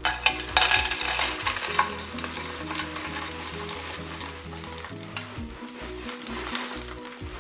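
Dry cereal pouring from a cardboard box into a clear airtight canister: a dense, steady hiss of many small pieces, loudest in the first two seconds and then easing, over background music.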